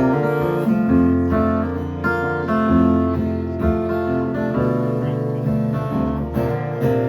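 Guitar strumming chords in a steady rhythm, the instrumental intro before the vocals come in.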